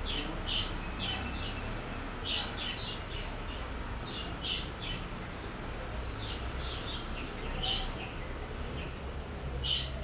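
Small bird chirping: short high chirps in scattered clusters of two or three, every second or so.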